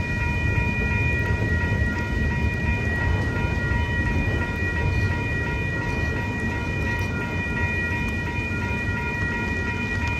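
Union Pacific autorack freight cars rolling through a grade crossing, a steady low rumble of wheels on rail. The crossing's warning bell rings continuously over it.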